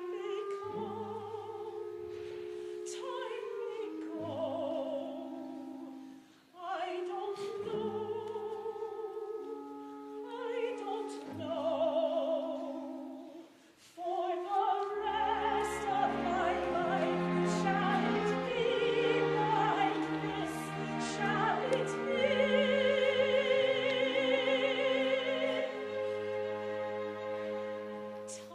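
Operatic singing with vibrato over instrumental accompaniment. The phrases break off briefly about six and fourteen seconds in, then the music grows fuller and louder with low notes added.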